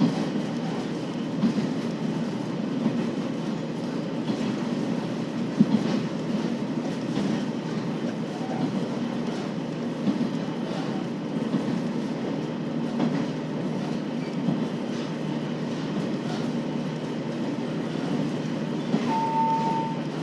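Onboard running sound of a KiHa 40 series diesel railcar: the steady drone of the diesel engine and wheels on the rails, with intermittent rail-joint clicks. A short steady beep sounds near the end.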